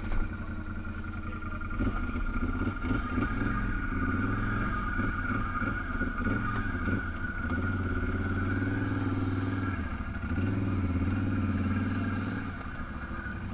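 Off-road vehicle engine running under changing throttle, with a steady high whine alongside. For several seconds early on, knocks and clatter come through as the vehicle jolts over rough ground. The engine drops back shortly before the end.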